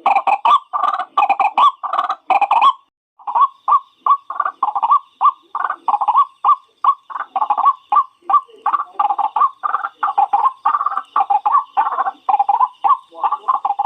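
White-breasted waterhen (ruak-ruak) calling in a fast, unbroken run of short harsh repeated notes, as played from a lure recording. The calls break off briefly about three seconds in, then resume with a faint steady high tone beneath them.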